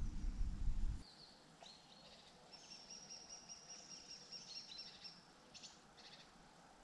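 Birds chirping and singing faintly in the background, with thin, high, drawn-out whistled notes and a few quick chirps. A low rumble cuts off about a second in.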